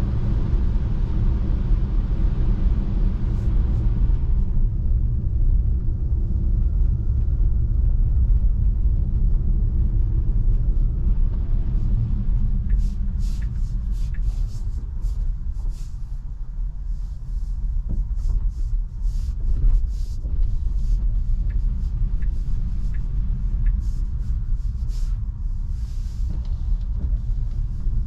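Low, steady tyre and road rumble of an electric Tesla Model 3 driving over a snow-covered road. Its higher hiss drops away about four seconds in. In the second half, scattered sharp ticks and clicks come through over the rumble.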